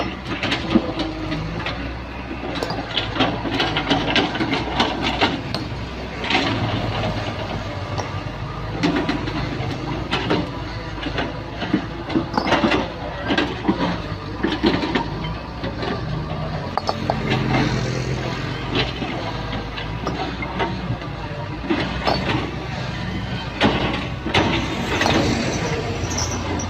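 Hydraulic excavator of the 0.7 m³-bucket class working: the diesel engine runs steadily under load while the bucket clanks and scrapes against soil and rock in many short knocks.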